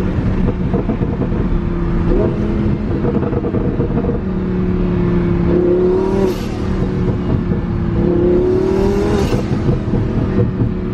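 Twin-turbo Lamborghini Huracan V10 engine under way, running steadily and then rising in pitch twice as it accelerates, each climb ending in a brief hiss about six and nine seconds in.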